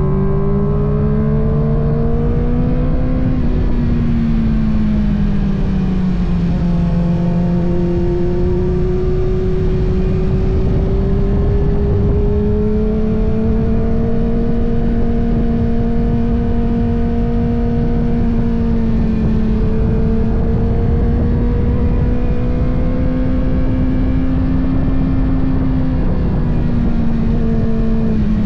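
Kawasaki ZX-6R's inline-four engine under way at an easy pace: its pitch climbs, falls away about three seconds in, then rises slowly and holds steady, with a short dip near the end. A steady rush of wind and road noise runs underneath.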